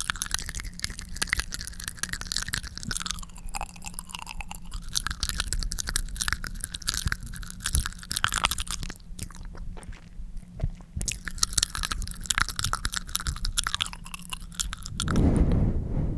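Close-miked ASMR mouth sounds: wet tongue smearing, dense sticky saliva clicks and crackles. A louder breathy rush comes near the end.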